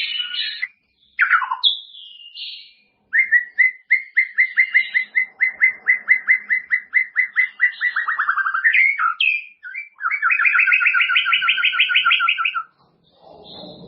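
White-rumped shama (murai batu) singing: a few short varied whistled phrases, then a long run of rapidly repeated notes lasting about five seconds, and a fast two-toned trill near the end.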